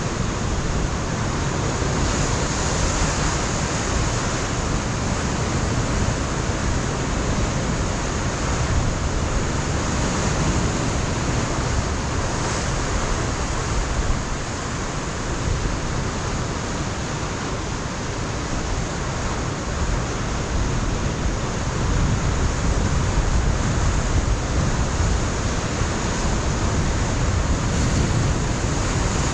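Ocean surf breaking on a rocky shore, a continuous rushing wash that swells and eases, louder in the last third, with wind buffeting the microphone.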